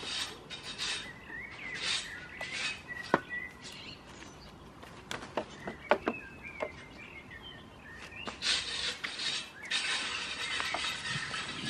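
Small birds chirping, with bursts of rustling and a few sharp knocks, the loudest about six seconds in.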